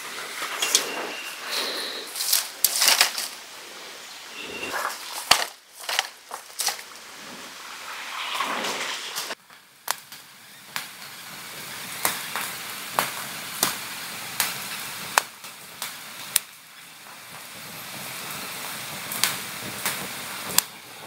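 Wood campfire crackling, with sharp, irregular pops over a steady hiss. There are some rustling sounds in the first few seconds.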